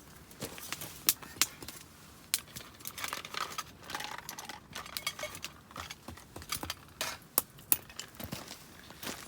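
Irregular sharp clicks and light clinks, a couple of dozen of them scattered through, a few with a short ringing tail, over a faint hiss.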